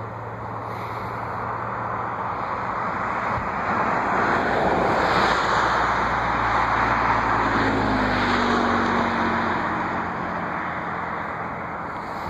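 Jet aircraft passing close by: a rushing engine roar swells over several seconds, peaks, then fades away, its pitch dropping slightly as it goes past.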